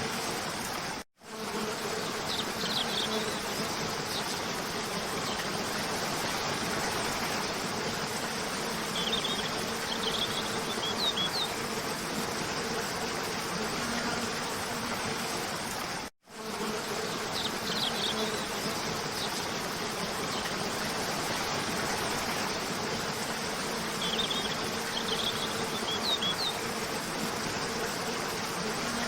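Waterfall rushing steadily, with birds chirping in short clusters and a faint steady buzzing hum underneath. The sound cuts out for a moment twice, about a second in and about halfway, where the looped track restarts.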